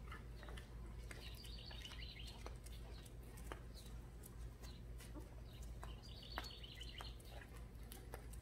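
A bird calling in two bouts of rapid, high repeated chirps, each lasting about a second, over a steady low rumble and scattered light clicks.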